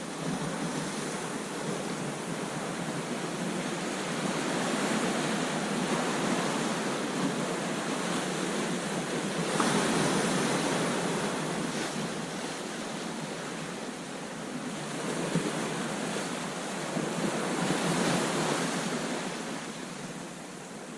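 Ocean surf breaking on a beach, a steady wash that swells with each wave, loudest about halfway through and again near the end. Wind on the microphone.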